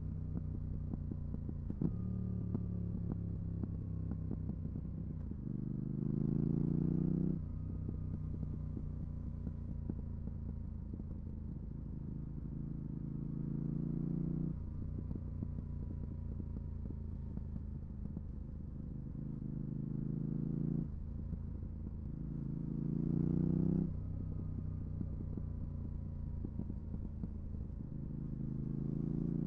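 Yamaha R7's 689 cc parallel-twin engine through a full MIVV GP Pro exhaust with the dB killer fitted. It runs at a low, steady note and rises in pitch five times, each for one to two seconds, before cutting back sharply.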